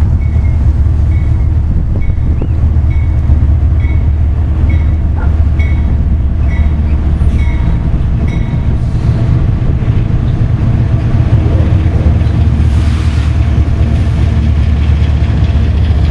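CSX diesel locomotives running with a deep steady rumble as they approach and pass, followed by empty coal hoppers rolling by. A bell rings regularly, about once every two-thirds of a second, until about halfway through.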